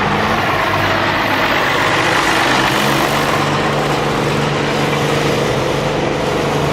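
Oliver 1655 pulling tractor's diesel engine running loud and steady; about two and a half seconds in its note settles into a steady, even pitch.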